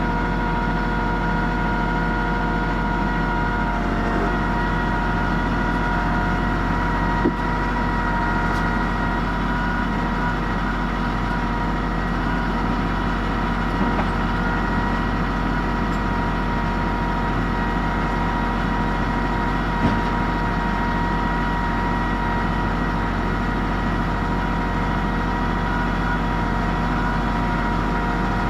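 A tractor engine running steadily at constant speed, as if idling, with a couple of brief knocks, one about seven seconds in and another around twenty seconds in.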